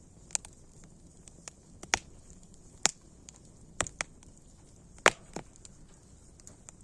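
Campfire crackling: sharp, irregular pops and snaps of burning wood over a faint steady hiss, the loudest pops about two, three and five seconds in.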